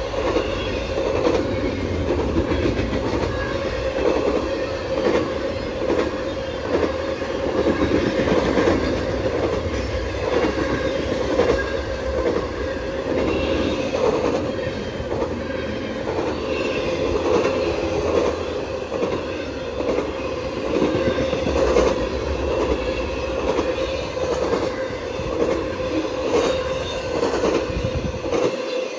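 BNSF intermodal freight train's cars rolling past: a steady rumble of steel wheels on rail with a constant high hum, and repeated clacks as the wheels cross the rail joints.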